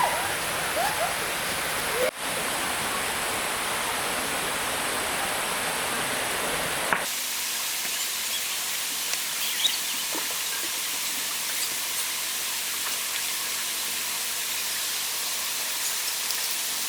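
Steady rush of flowing stream water, cut abruptly about two seconds in and again about seven seconds in, after which it sounds thinner, without the low rumble.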